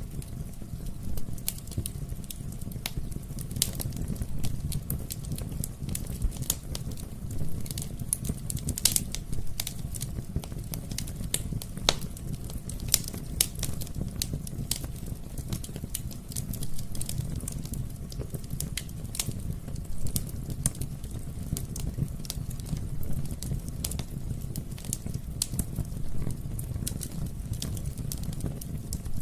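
Wood fire crackling, with frequent irregular pops and snaps over a steady low rumble of burning.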